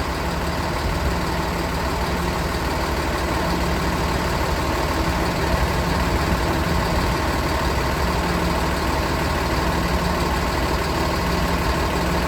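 Bus engine idling steadily with no change in speed, running the chassis air-conditioning compressor.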